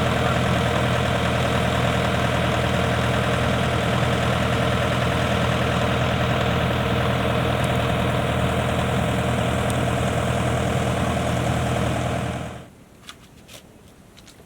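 Diesel engine of the harvester or the towing tractor running steadily. Near the end the engine sound cuts off suddenly, leaving faint clicks.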